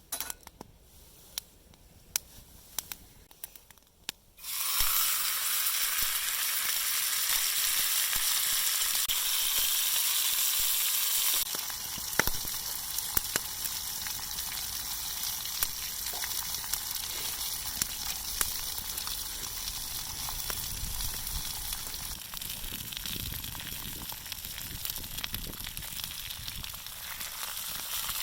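Steak sizzling in a hot pan. After a few light clicks, the sizzle starts abruptly about four seconds in, loud and steady, and eases a little about eleven seconds in.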